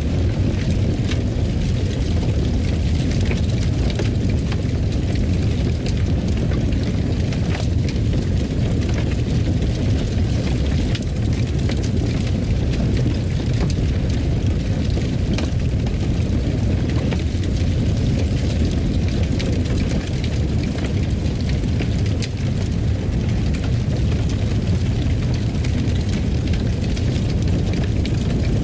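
Fireplace fire burning: scattered sharp crackles and pops over a steady low rumble.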